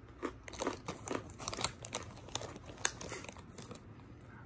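Chewing hard Snyder's of Hanover pretzel pieces: a run of irregular dry crunches, thinning out near the end.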